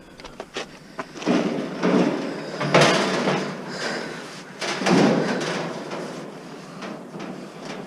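Metal parts of a scrapped appliance being handled, with a few sharp clicks followed by several loud bouts of scraping and clanking, the loudest about three and five seconds in.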